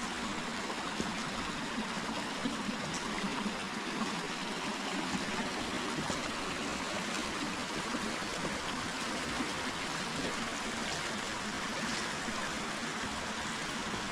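Forest river flowing: a steady rush and trickle of water over stones.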